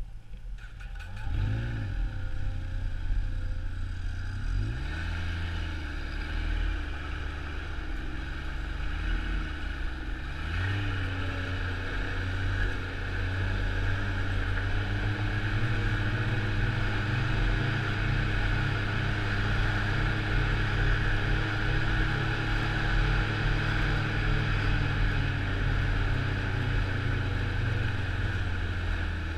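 Snowmobile engine pulling away and riding: it revs up about a second in, its pitch rises and falls for roughly the first ten seconds, then it runs at a steady cruising speed for the rest.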